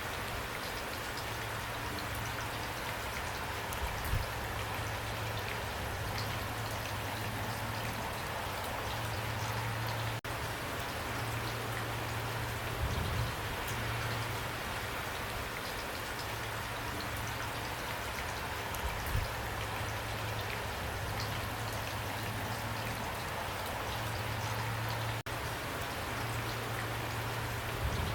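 Steady pouring rain with drops pattering on a surface, a low rumble swelling and fading underneath, and a few dull thuds.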